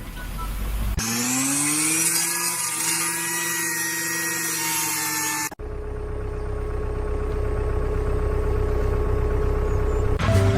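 A motor spins up, its whine rising in pitch and then holding steady with a hiss over it; after an abrupt cut a lower, steady machine hum takes over.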